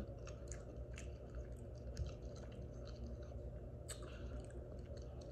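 A person chewing soft food, a loaded potato with shrimp, chicken and sausage in alfredo sauce, close to the microphone, with small mouth clicks scattered through the chewing over a steady low hum.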